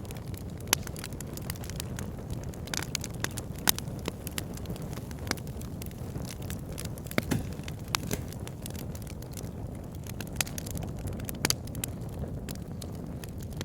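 Wood fire in a log burner crackling: a steady low rumble of flames with irregular sharp pops and snaps from the burning logs.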